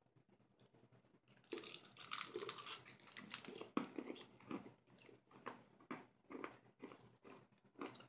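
Close-up chewing of a Redbird soft candy puff: quiet, irregular crunching and wet mouth sounds, starting about a second and a half in and coming roughly once or twice a second.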